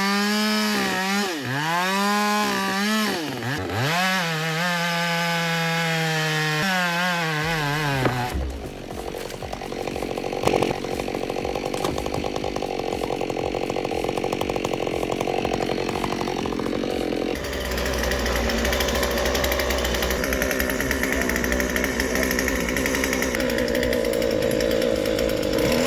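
Two-stroke chainsaw revving up and down repeatedly for about eight seconds, then running steadily under load, with a sharp knock about ten seconds in and a deeper rumble joining from around seventeen seconds.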